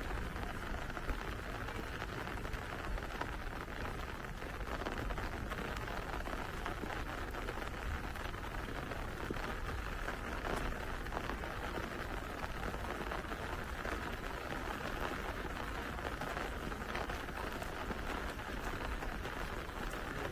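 Steady rain falling on a street, a continuous hiss of many small drop impacts.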